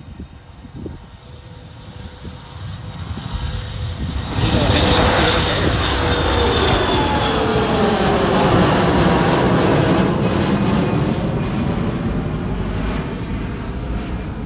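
Spirit Airlines jet airliner taking off. Its engine noise swells suddenly about four seconds in and stays loud, with whining tones falling in pitch as it passes.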